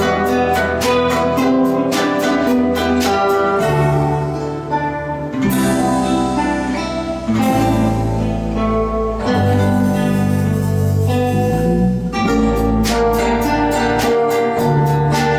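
Ensemble of guitars playing, with rhythmic plucked chords at the start, a slower stretch of held bass notes and melody in the middle, and the quick chordal rhythm returning near the end.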